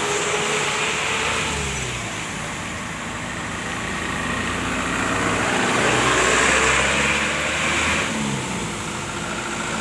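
Truck engines labouring and revving on a steep uphill climb among slow traffic. The pitch rises and falls, and the engine sound is loudest about six to eight seconds in.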